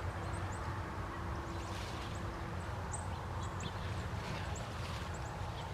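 Small birds chirping in short, high notes scattered throughout, over a steady low background rumble.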